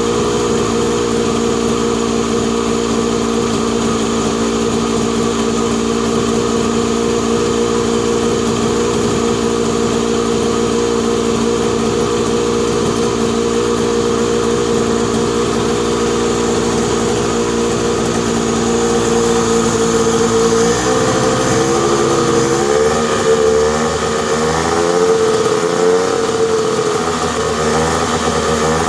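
Mazda Porter kei van engine idling steadily, then from about 20 seconds in revved lightly several times, its pitch rising and falling before settling back.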